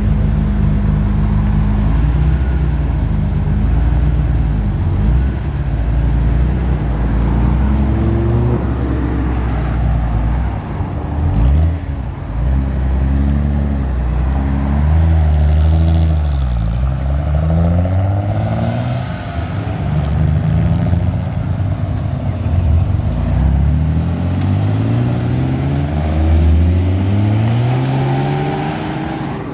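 Classic Japanese sports car engines at a car meet: a Nissan 300ZX's engine idles steadily at first, then is revved again and again, its pitch rising and falling, with one sharp pop about eleven seconds in. Near the end a Toyota Supra accelerates past, its engine note climbing.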